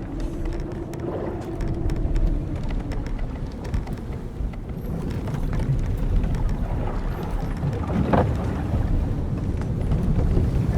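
Timbers and ropes of an old wooden sailing ship creaking over a steady low rush of wind and sea. One long drawn creak runs through the first two seconds or so, and a short sharper creak comes about eight seconds in.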